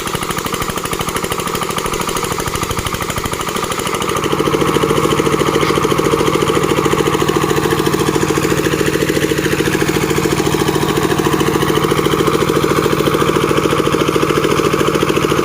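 Engine of a board-making (plank-sawing) machine running with a fast, even pulse, getting louder and steadier about four seconds in.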